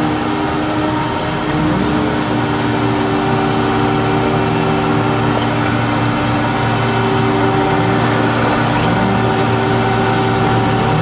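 Car crusher's engine running steadily. The revs rise about two seconds in and then hold at a higher pitch, as the machine is worked on the 1967 Chevy van.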